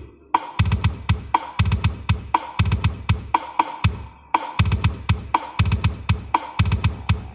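Hadrah frame-drum percussion played through a sound system with heavy bass: deep bass-drum strokes and sharp slaps in a repeating pattern, about once a second.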